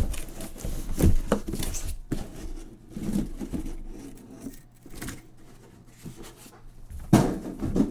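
Cardboard trading card boxes being handled and opened on a table: irregular knocks, scrapes and rustles, loudest about a second in and again near the end.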